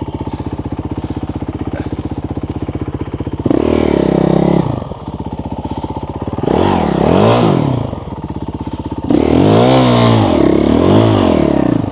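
Motorcycle engine idling with a steady pulse, then revved hard in three spells, the pitch rising and falling in repeated blips. This is the rider trying to power the bike through soft, deep sand.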